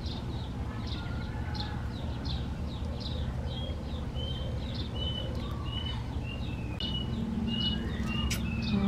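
A songbird calling repeatedly: short, high chirps about twice a second, the later ones flatter and a little lower, over a steady low hum.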